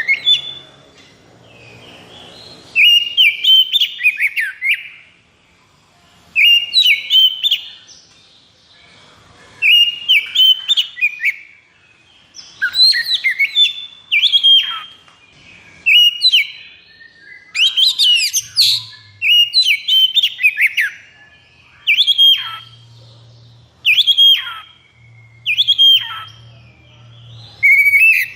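Oriental magpie-robin (kacer) singing in about a dozen loud, rapid phrases of whistles and chattering notes, each a second or two long with short gaps between. This is the excited, aggressive 'konslet' song that keepers use to provoke a caged bird into singing.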